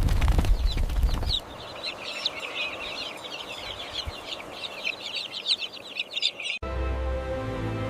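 A low rumble with crackles for about the first second and a half, then a dense chatter of small birds chirping rapidly. About six and a half seconds in it cuts off abruptly to background music with held notes.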